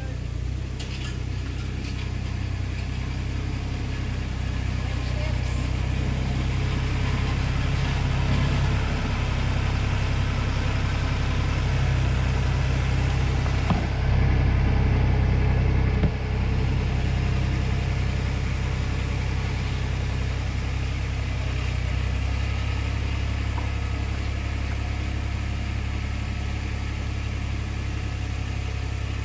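Compact tractor with a front loader, its engine running steadily as it works the ground, growing louder as it comes close about halfway through, with a sharp knock, then easing a little as it moves off.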